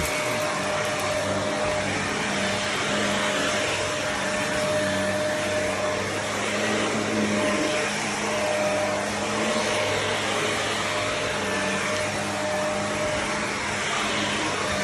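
Shark vacuum cleaner running steadily on carpet, its motor hum wavering slightly as it is pushed back and forth.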